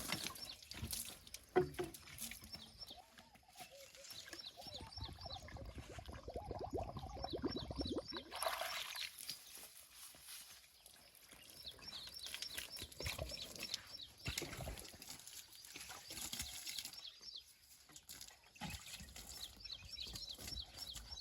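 Water trickling and splashing, faint and uneven, as a mini tractor is washed.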